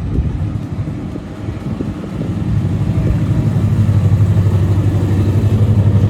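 Car engine running with a low, evenly throbbing rumble that grows louder a couple of seconds in and then holds steady.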